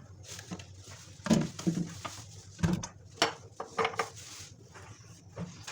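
Kitchenware being handled: a few separate sharp knocks and clinks with short ringing, the loudest about a second and a half in.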